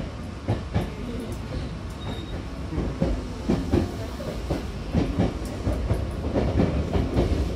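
Hankyu electric commuter train running, heard from inside the car by the doors: a steady low rumble with irregular clacks and knocks from the wheels and car body.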